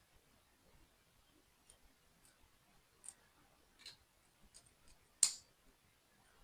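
Small plastic building pieces of a toy concrete mixer truck clicking as they are handled and fitted together: a few light clicks, then one sharper, louder click about five seconds in.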